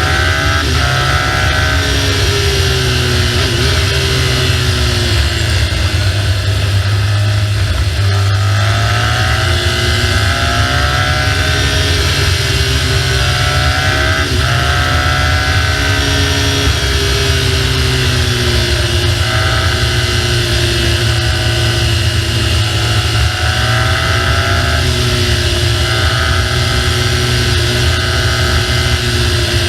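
BMW R1200GS boxer-twin engine running on the move, its note rising and falling as the revs change, under a heavy low rumble of wind on the microphone.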